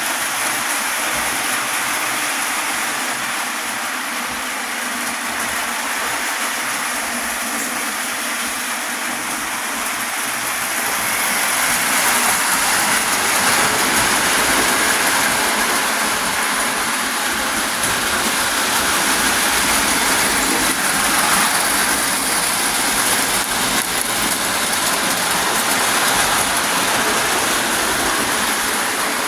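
Lionel pre-war tinplate toy train running on its track: the electric motor whirring and the wheels rattling over the rails as one steady noise, which grows louder about 12 seconds in.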